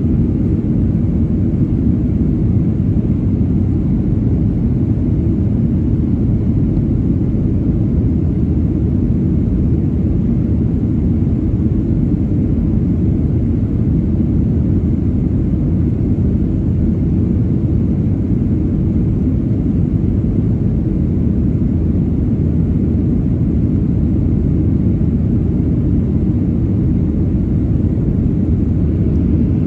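Steady low roar inside the cabin of a Boeing 737-900ER, its CFM56-7B jet engines and the airflow heard from a window seat behind the wing, unchanging throughout.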